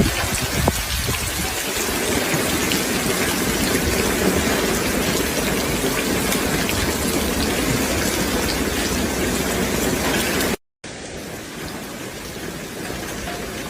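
Heavy rain falling steadily as a dense, even hiss. It cuts out briefly about ten and a half seconds in and comes back somewhat quieter.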